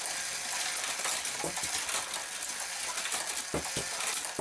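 Die-cast Hot Wheels cars clattering and rattling through a plastic Power Tower wall track, with many quick clicks and a few duller knocks as cars strike parts of the track.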